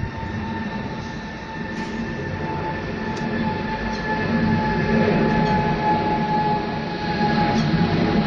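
Boeing 777-200LR jet engines running: a steady rumble with a steady whine over it, growing louder about five seconds in, with a few faint clicks.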